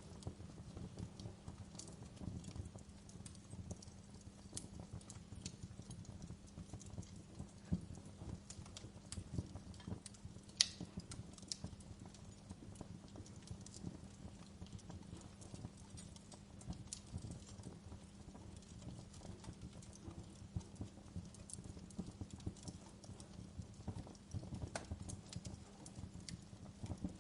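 Wood fire crackling in a fireplace: a low steady burning rumble with frequent sharp crackles and snaps, a louder pop about ten seconds in.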